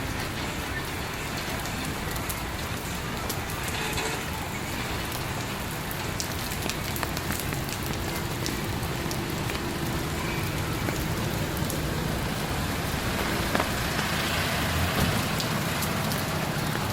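Heavy rain pouring down steadily: an even hiss dotted with many small sharp drop ticks.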